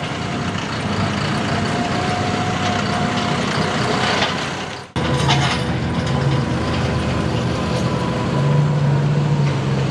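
Diesel 4x4 pulling trucks running at low revs, with a low hum and a faint steady whine. The sound drops out for an instant about five seconds in, then carries on.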